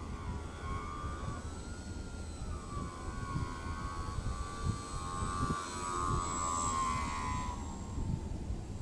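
Radio-controlled glider's motor and propeller whining in flight, the pitch wavering and sliding as the plane moves about, then dropping away near the end.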